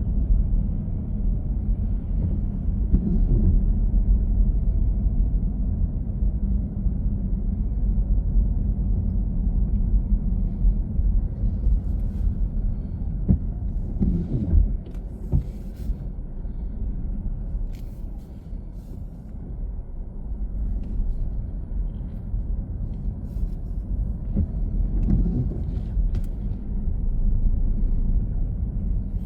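Steady low road and engine rumble of a car being driven, dipping quieter for a few seconds just past the middle, then building again.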